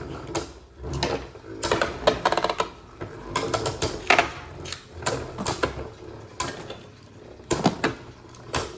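Two spinning Beyblade Burst tops clashing in a plastic stadium: sharp clacks at uneven times, often in quick clusters, as the tops hit each other and the stadium wall.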